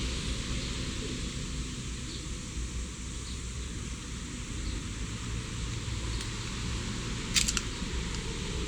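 Steady background hiss with a low rumble, broken by a quick run of sharp clicks about seven and a half seconds in.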